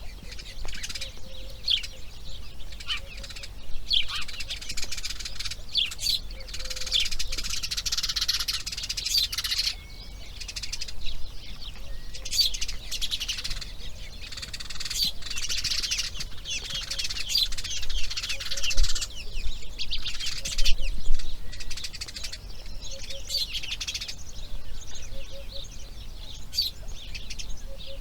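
Birds chirping: a dense, continuous run of short, high chirps, thickest in two spells in the middle.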